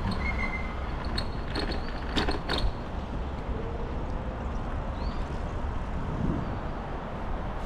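Wind rushing over the microphone of a moving rental bicycle, a steady low rumble, with a few sharp rattles and knocks between about one and three seconds in.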